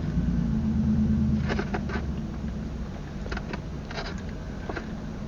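A motor vehicle's low engine hum, fading away over the first few seconds, with a few light clicks and rustles scattered through.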